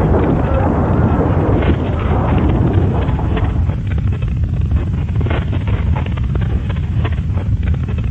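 Loud, continuous low rumbling noise, with many short rattles and clicks from about halfway through.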